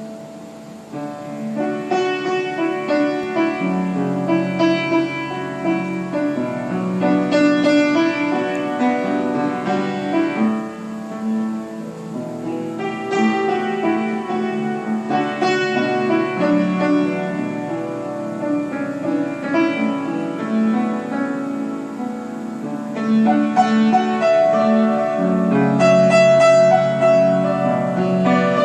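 Piano playing a melody over chords, growing louder about a second in.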